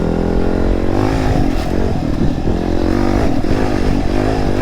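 Dirt bike engine running while being ridden, its revs rising and falling repeatedly as the throttle is worked.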